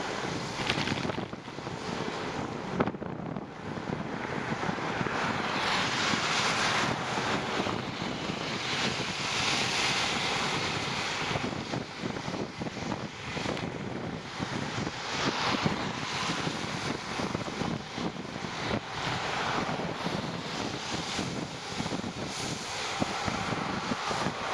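Wind rushing over a camera microphone on a moving bicycle in the rain: a steady rushing noise that swells louder from about five to eleven seconds in.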